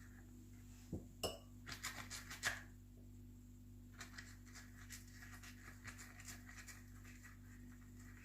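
Light clinks and knocks of small puto molds and kitchen utensils being handled, a few sharper ones in the first few seconds, then a run of softer clinks, over a steady low hum.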